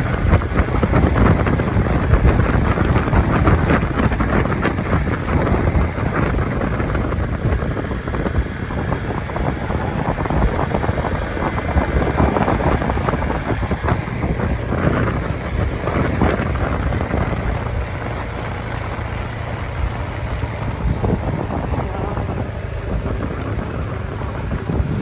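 Motorcycle running on the road, with wind buffeting the microphone in a steady, loud rush.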